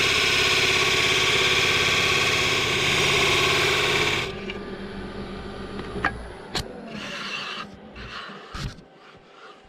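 Wood lathe running with a turning tool cutting the green poplar, a loud buzzy chatter that stops abruptly about four seconds in. The low rumble of the lathe winding down follows, then a few sharp knocks and short bursts of tool and workpiece handling.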